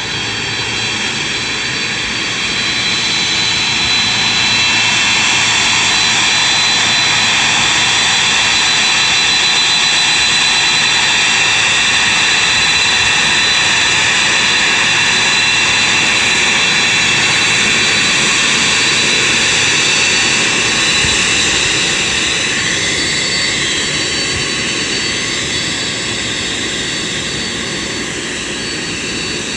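Boeing 767-300's jet engines running, a steady rushing noise with a high whine over it. It swells a few seconds in and eases off after about twenty seconds.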